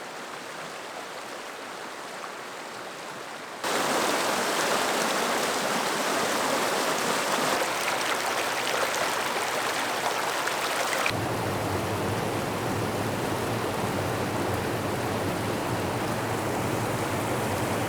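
Mountain creek water flowing and rushing steadily. It gets abruptly louder about four seconds in and shifts to a fuller, lower rush about eleven seconds in.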